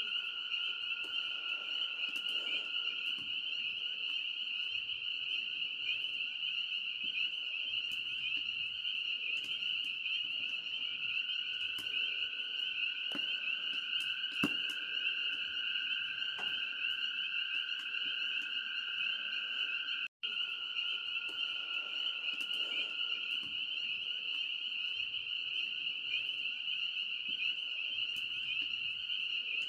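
Dense night chorus of frogs, a steady wall of high calls, with a second, lower chorus under it and occasional sharp pops and crackles from a campfire. The sound cuts out for an instant about twenty seconds in.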